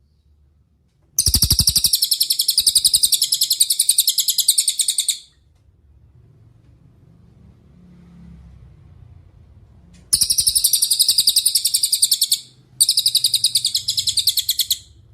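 A cililin singing: three long, very high, fast-pulsed trills, the first about four seconds long, then two shorter ones close together near the end.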